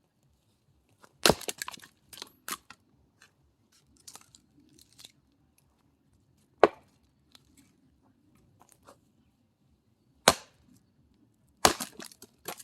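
Axe strikes splitting dry firewood: four sharp cracks, one about a second in, one near the middle and two close together near the end, with lighter knocks between. The wood is dry and splits easily.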